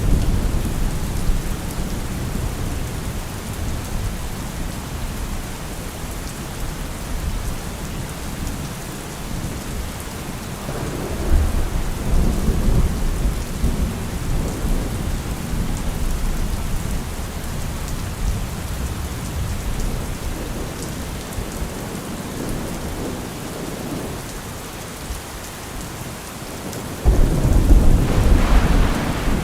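Heavy rain falling steadily, with a deep rumble swelling up about eleven seconds in and a louder one near the end.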